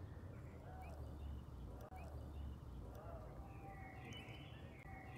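Faint bird chirps and short twittering calls over a steady low rumble, with a longer run of chirping over the last second and a half.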